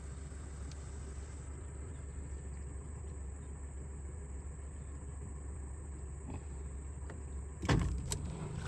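Low, steady motor hum, with a sudden loud thump or splash near the end.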